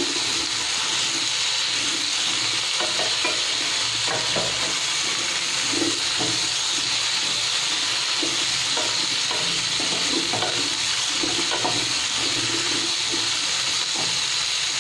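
Cauliflower florets frying in hot oil in a kadhai with a steady sizzle, while a spatula stirs and scrapes them around the pan in repeated strokes about every second or so.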